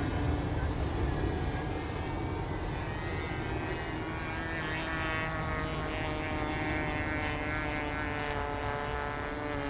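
Radio-controlled model airplane's O.S. 25 LA two-stroke glow engine running at a steady pitch as the plane flies.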